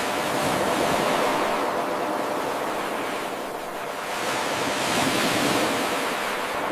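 Ocean surf washing ashore in a continuous rush of noise that swells, eases and swells again. A brief click at the very start marks the seam of the 8-second loop.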